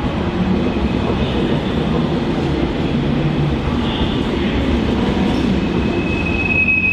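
Train moving close by, a loud steady rumble and rolling noise. A thin high wheel squeal sets in near the end.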